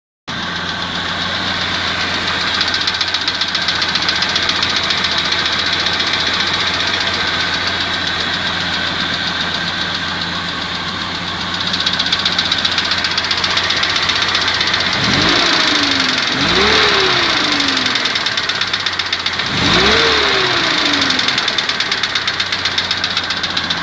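ZMZ petrol engine idling with a steady rhythmic knock, revved briefly three times about two-thirds of the way through. The knock remains after a full set of new hydraulic lifters and has grown louder over about 100 km.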